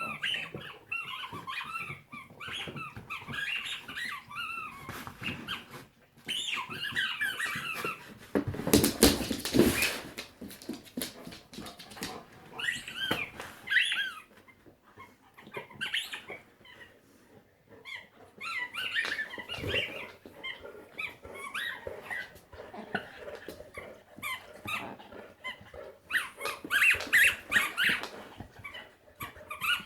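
A dog at play with a squeaky mouse, giving off bursts of short, high, wavering squeaks again and again. About nine seconds in comes a loud burst of noise lasting about a second, louder than the squeaks.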